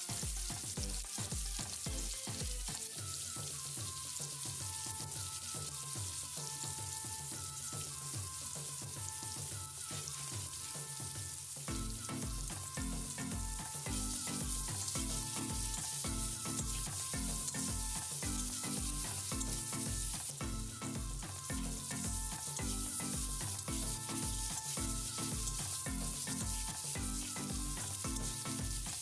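Potato cubes frying in hot oil in a wok, a steady sizzle, with a metal spatula stirring them now and then. Background music with a steady beat plays underneath.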